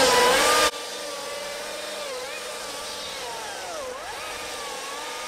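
Stihl MSA 220 battery chainsaw cutting into an oak trunk: a steady electric motor whine whose pitch sags under load and recovers twice. The whole sound drops sharply in level under a second in and carries on quieter.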